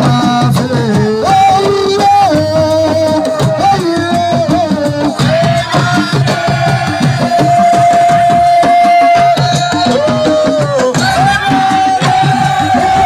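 Assiko band music: fast hand percussion under a melodic lead line that bends between notes and holds one long note in the middle.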